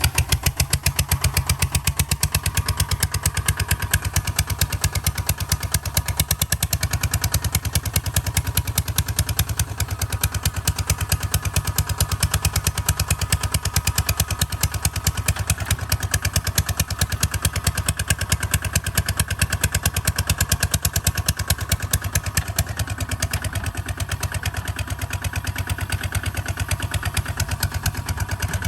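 Kubota ZT155 DI single-cylinder diesel engine of a walking tractor running steadily, its firing strokes coming as a rapid, even beat.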